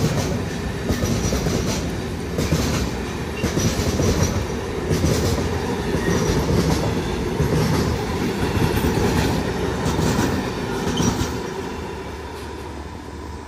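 Intermodal freight train of wagons carrying lorry semi-trailers rolling past at speed: a steady rumble with repeated wheel clatter over rail joints and a few short high wheel squeals. Near the end the noise fades as the last wagon goes by.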